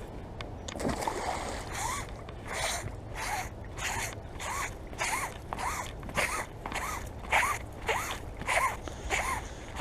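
Magnet-fishing rope rasping through the hands in rhythmic hand-over-hand pulls, about one stroke every 0.6 s, each with a short squeak.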